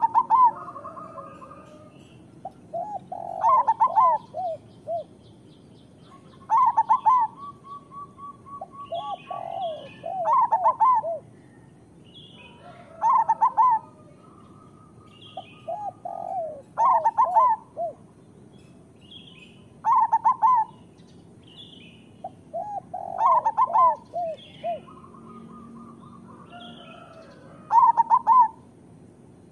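Zebra dove (perkutut) cooing its rolling song, one phrase about every three seconds, with faint higher chirps between the phrases.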